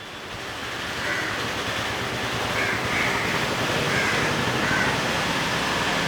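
Crows cawing repeatedly, about once a second, over a steady rushing background noise that swells up in the first second.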